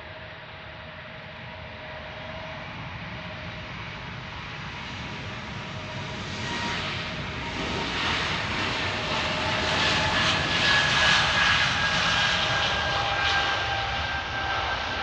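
Airbus A220 airliner departing, its geared turbofan engines at takeoff power: a jet rumble and whine that grows louder, peaks about two thirds of the way through, then eases off, with the whine dropping slightly in pitch as it passes.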